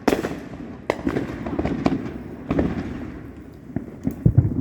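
Fireworks going off: a series of sharp bangs, about one a second, each trailing off after the blast.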